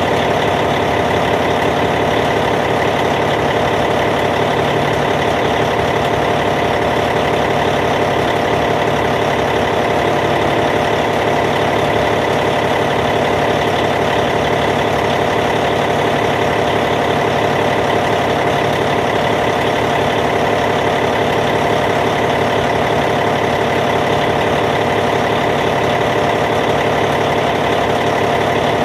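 Caterpillar C15 diesel engine idling steadily in a D8T bulldozer, an even, unchanging rumble.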